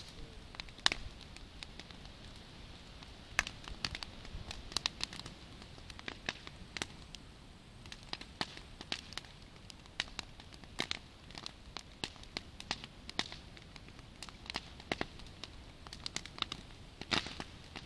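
Campfire crackling: burning wood giving irregular sharp pops and snaps, sometimes several a second, over a low steady hiss.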